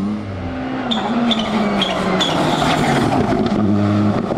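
Rally car going by at speed, its engine pitch dropping and climbing again through gear changes over a loud rush of tyre noise.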